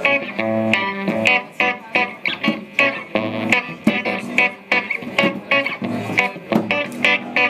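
Solo guitar played without vocals: a steady, quick rhythm of plucked notes with sharp attacks over low bass notes.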